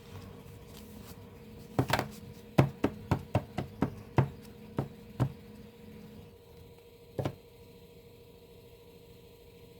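A quick run of sharp taps and clicks, about ten in three and a half seconds, then one more a couple of seconds later, from an album's packaging being handled during unboxing.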